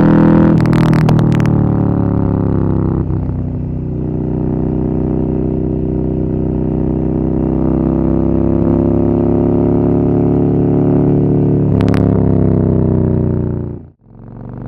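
Harley-Davidson Fat Boy's air-cooled 45-degree V-twin running at a low, steady speed. Its pitch eases down at the start and rises a little near the end, with short clattery bursts about a second in and again near the end, before it cuts off.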